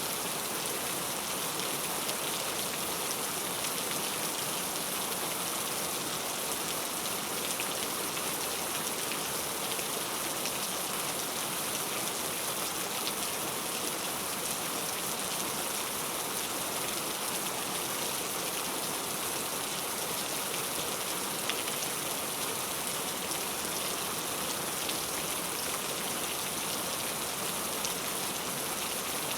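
Heavy rain falling steadily: an even hiss, strongest in the high range, with faint ticks of single drops scattered through it.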